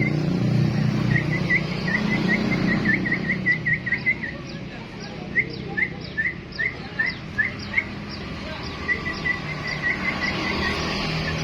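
Sooty-headed bulbul (kutilang) calling in quick runs of short, repeated chirps, several a second, with a slower run of sharper chirps in the middle. A low background rumble fades over the first few seconds.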